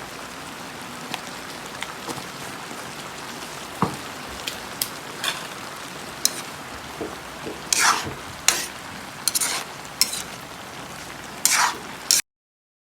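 Chopsuey vegetables sizzling steadily in a pan, with sharp clicks and several louder scrapes of a cooking utensil against the pan in the second half. The sound cuts off suddenly near the end.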